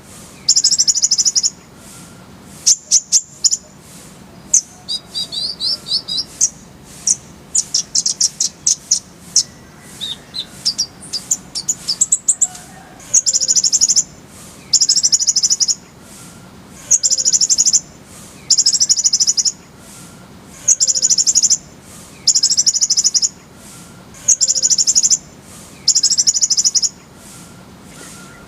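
Kolibri ninja sunbird singing: loud, high-pitched rapid trills about a second long, repeated every couple of seconds, with quicker, varied chirps in the first few seconds.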